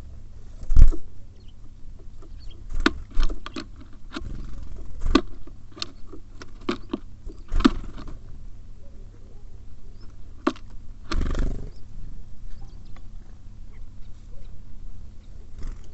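Small birds feeding at a bird feeder close to the microphone: irregular sharp taps and knocks of pecking and hopping on the feeder, with two heavier thumps, one about a second in and one about eleven seconds in.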